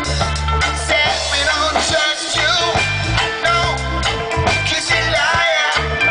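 Live reggae band playing, with a voice singing over a heavy bassline and guitar.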